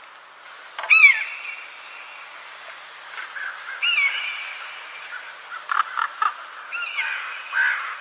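Bird calls: a loud call about a second in, another just before four seconds in and a third near the end, each rising then dropping in pitch and trailing off briefly, with a few short sharp calls in between.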